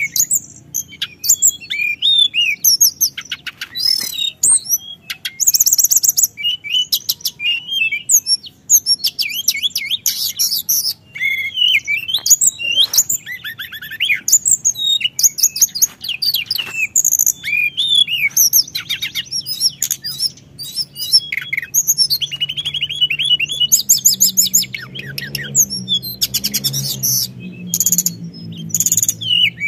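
Teledekan gunung songbird singing continuously in rolling song: fast runs of high chirps and rapid trills with hardly a break. A low hum runs underneath, a little stronger near the end.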